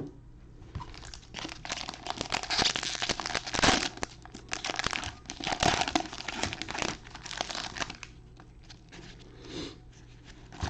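Trading card pack wrappers being torn open and crinkled: a dense run of crackling, heaviest in the middle and dying down near the end.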